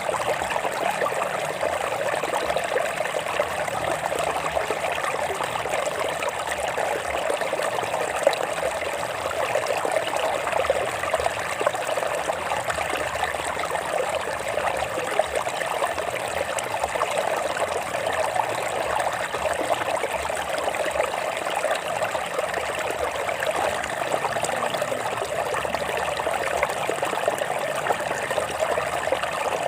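Stream water flowing and trickling over rocks, a steady splashing babble.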